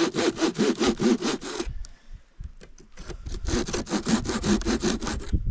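Hand saw cutting slots into wood in quick back-and-forth strokes, about six a second: one run of sawing, a short pause with a few light strokes, then a second run.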